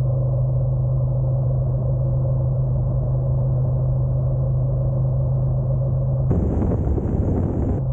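Honda NC750X DCT's parallel-twin engine droning at a steady pitch while cruising. About six seconds in, a loud rushing noise suddenly covers it for a second or so.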